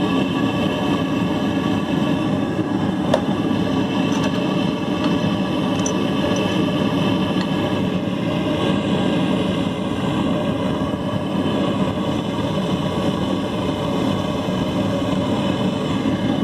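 Homemade propane forge burner running steadily inside a gas forge at half a bar of gas pressure with its choke wide open. It makes a constant roar with a steady hum running through it.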